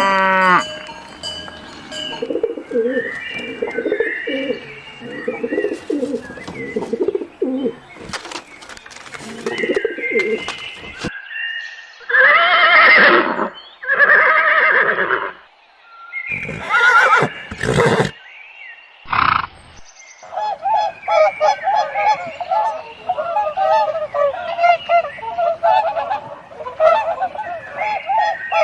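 A string of different animal calls in succession: low repeated cooing-like calls, then two loud pitched calls, then fast chattering calls near the end.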